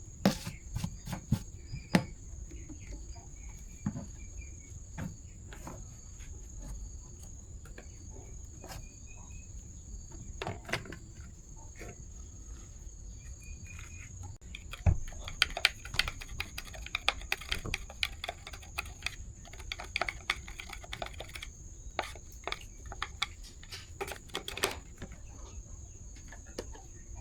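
Scattered clicks and knocks of hand tools and small parts being handled during repair work, busier in the second half, over a steady high-pitched insect drone.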